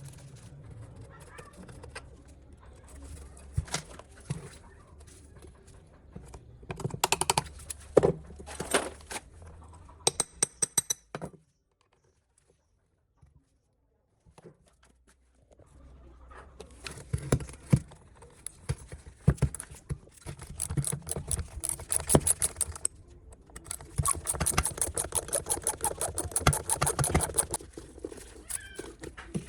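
Hand-tool work on metal motorbike parts: irregular clinks and knocks mixed with quick scraping strokes, breaking off for a few seconds of near silence midway before resuming with fast repeated scraping.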